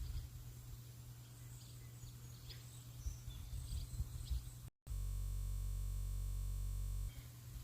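Faint, brief bird chirps over a low rumbling outdoor ambience. About five seconds in the sound drops out for an instant, then turns into a steady, unchanging hum for about two seconds before the ambience returns.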